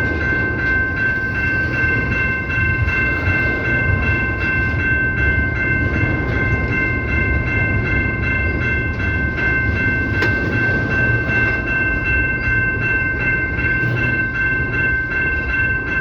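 A CPKC freight train rolling past with a low rumble and wheel clatter, under a steady high-pitched tone held without a break.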